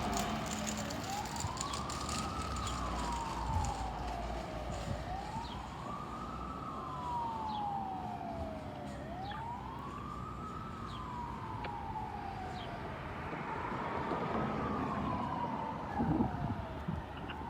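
Fire truck siren on a slow wail, rising quickly and falling slowly about every four seconds, over a low engine rumble that fades.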